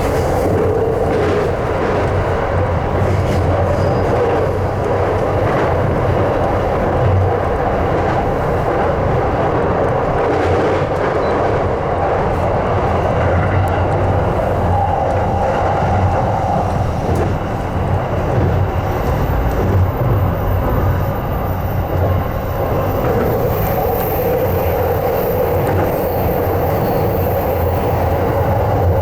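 Electric commuter train running along the track: a steady rumble of wheels on rails with a low hum. A faint high whine comes in near the end.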